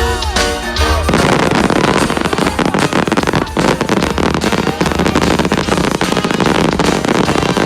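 Show music for about a second, then cut off by a dense barrage of fireworks: rapid, overlapping bangs and crackling with no let-up.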